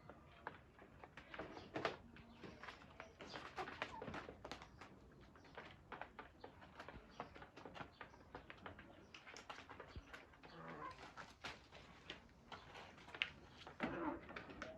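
Local chickens feeding on chopped greens: many quick, irregular pecking taps, with a soft call near the end.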